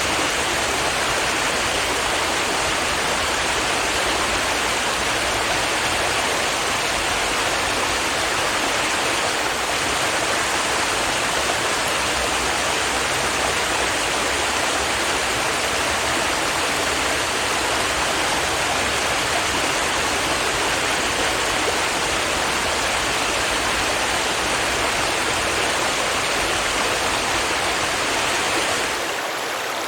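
A stream of water rushing and babbling steadily over rocks. It turns slightly quieter and duller just before the end.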